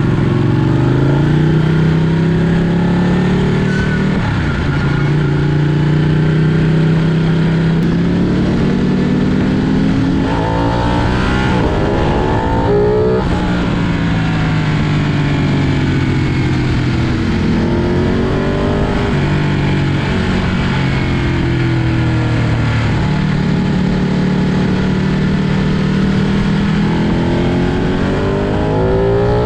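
Ducati Panigale superbike engine under way, its pitch climbing under throttle and dropping back at each gear change, with steadier stretches of cruising between.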